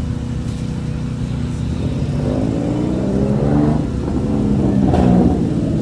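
Car engines passing at close range: a steady engine hum, then from about two seconds in a car accelerates past, its engine revving and rising in pitch, getting louder toward the end.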